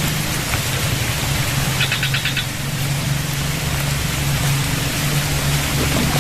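Small motorcycle engine running steadily under a constant hiss of rain and water. About two seconds in there is a brief run of rapid, high-pitched chirps.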